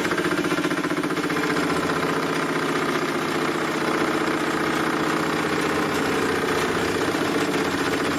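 Metal lathe running steadily, turning a chuck-held aluminium bar on a light clean-up cut.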